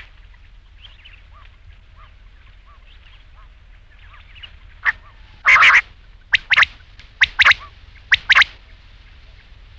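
Quail calling. For the first few seconds only faint chirps are heard. From about five seconds in come loud, sharp, short notes, mostly in quick pairs, three or four times.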